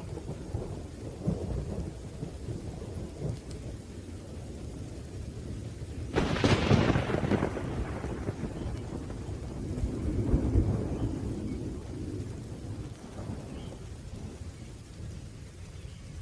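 Thunderstorm: rain with thunder rumbling throughout. A sharp thunderclap breaks about six seconds in and fades into rumbling, and another swell of rumbling comes a few seconds later.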